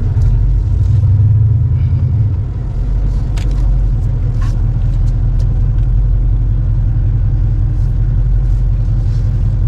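Car engine and road rumble heard from inside the cabin, a steady low rumble that swells briefly in the first couple of seconds, with a few faint clicks.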